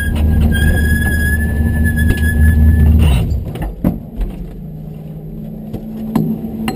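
Porsche 928's V8 engine heard from inside the cabin, running at low speed with a high steady whine over it. About three seconds in the engine note drops and the whine stops as the car comes to a halt, leaving the V8 idling with a few faint clicks.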